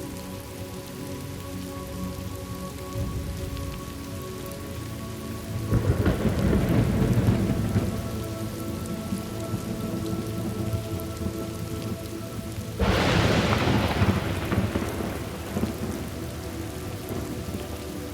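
Thunderstorm ambience: steady rain with two peals of thunder, a deep rolling rumble about a third of the way in and a sharper, brighter clap about two-thirds of the way through, each fading over a couple of seconds.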